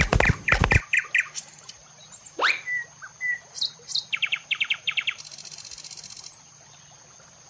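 Horse hooves clip-clopping for the first second, then scattered bird chirps and tweets: a rising whistle, a quick run of short chirps and a high buzzy trill near the end.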